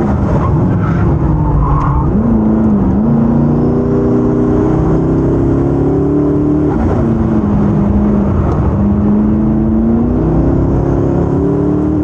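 Koenigsegg Regera's twin-turbo V8 running hard up a hillclimb course, its engine note rising with speed and dropping sharply twice as it lifts off.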